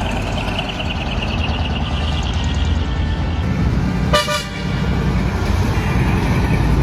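Heavy truck's diesel engine rumbling through a dual-muffler exhaust, with a faint high steady tone in the first few seconds and a short sharp sound about four seconds in.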